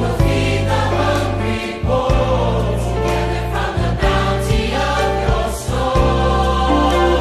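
A choir singing a hymn over instrumental accompaniment, with sustained bass notes that change every second or two.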